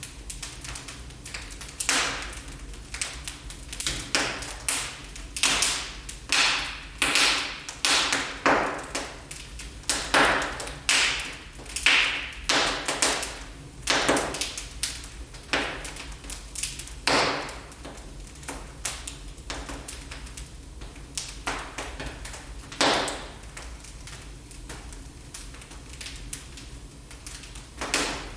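Wood fire in a fireplace crackling, with many sharp pops in quick succession that thin out to scattered pops later on, over a faint steady low hum.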